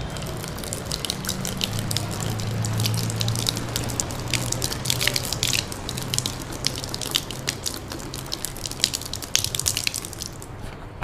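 Water poured out of a plastic bottle, splashing and dripping onto the ground in quick, irregular spatters that thin out near the end. A low steady hum runs underneath.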